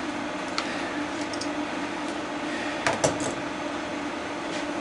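Light clicks and clatter of hand tools against the plastic parts of a toy horse prop being taken apart, with two sharper knocks close together about three seconds in, over a steady low hum.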